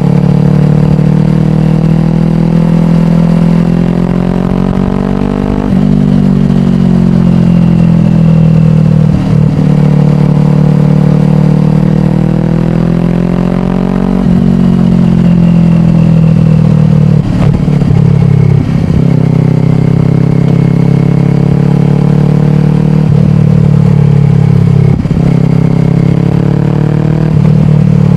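Kawasaki Ninja 400's parallel-twin engine, breathing through a slip-on exhaust, running under way. Its pitch climbs under throttle and falls off several times, with brief sudden breaks in between.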